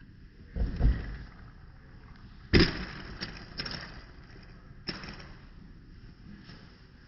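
A few knocks and thumps: a low double thump about half a second in, a sharp loud knock at about two and a half seconds, then a few lighter clicks.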